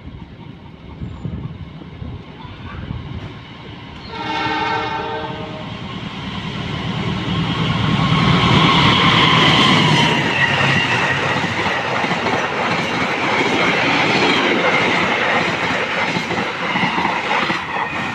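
Train horn sounding once, briefly, then a train passing at speed with its wheels clattering on the rails, loudest a few seconds after the horn.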